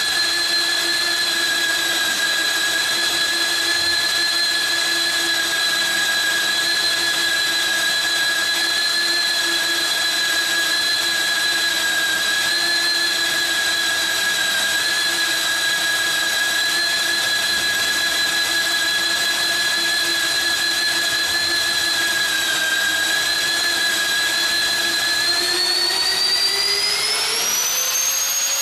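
Magnetic core drill's electric motor running with a steady high whine, then speeding up near the end, its pitch rising over about two seconds and holding higher.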